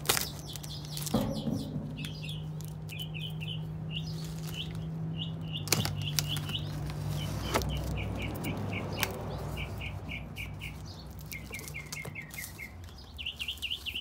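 Small birds chirping in quick runs of short notes. Under them, packing tape is slit with a box cutter and the cardboard box's flaps are pulled open, giving a few sharp clicks and scrapes.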